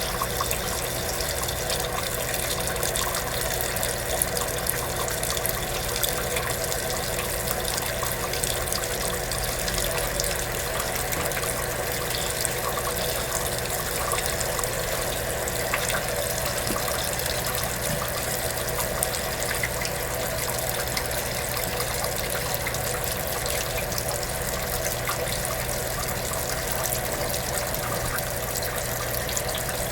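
Water running steadily into the tub of a Kenmore belt-drive portable washing machine as it fills from a sink faucet hookup, with a low steady hum underneath.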